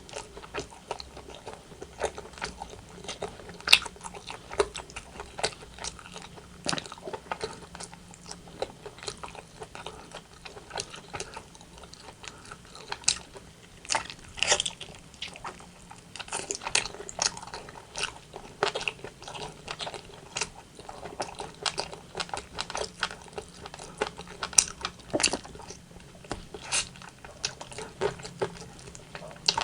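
Close-miked eating of rotisserie chicken: wet chewing and biting with crisp skin crunching, steady irregular mouth clicks and several louder snaps.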